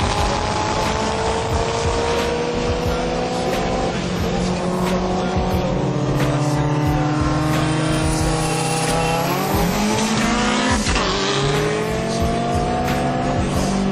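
A car's engine under hard acceleration, heard from inside the cabin. Its pitch climbs steadily and drops back at gear changes about two-thirds of the way through, then climbs again.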